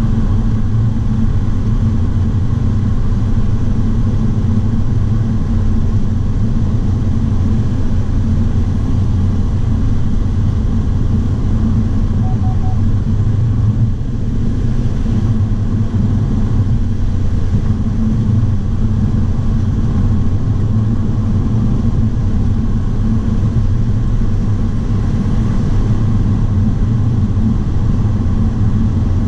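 HSV Clubsport's supercharged 6.2-litre LSA V8 running steadily at high speed, heard from inside the cabin with a constant low rumble and wind and tyre noise.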